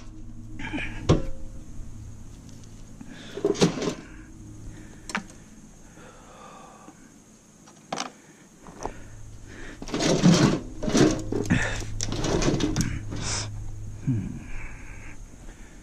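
Hand tools and loose metal parts being handled: scattered clicks and clanks, with a busier stretch of rattling knocks about ten to thirteen seconds in, over a steady low hum.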